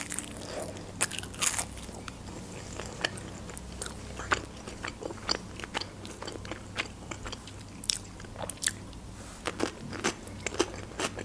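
A person eating crisp fried chebureki, mouth close to the microphone: chewing with many short, irregular crunches.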